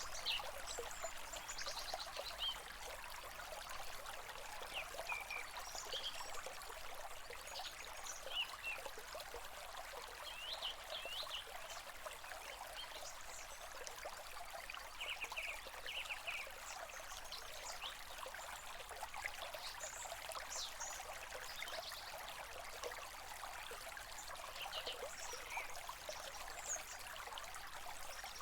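A stream running with a steady trickling rush, and birds giving short chirps and quick whistles over it at irregular moments.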